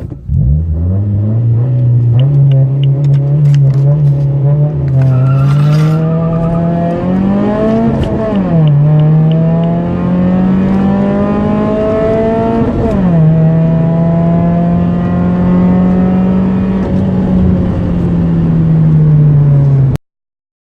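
Car engine under full-throttle acceleration from a standstill, climbing steadily in pitch through the gears, with a sharp drop at each gear change about eight and thirteen seconds in. The sound cuts off suddenly near the end.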